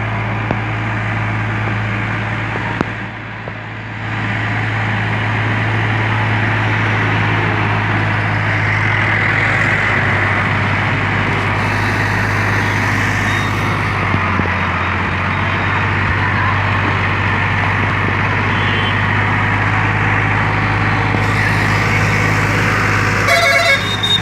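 Sonalika 40 HP tractor's diesel engine running steadily, with a brief dip in level a few seconds in.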